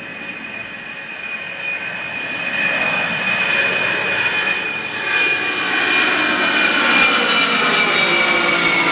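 Lockheed C-5 Galaxy's four turbofan engines whining on a low flyover pass, growing steadily louder as the jet approaches. Near the end the whine starts to drop in pitch as the aircraft begins to pass.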